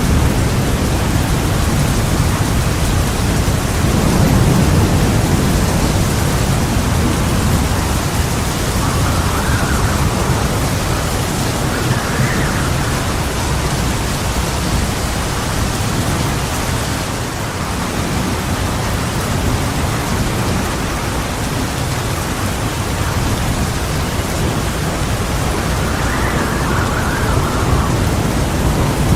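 Heavy rain falling steadily, with low rolling thunder rumbling in the first few seconds.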